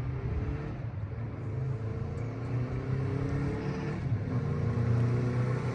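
Honda CB350 Four's air-cooled inline four-cylinder engine running steadily shortly after a cold start, growing slowly louder toward the end.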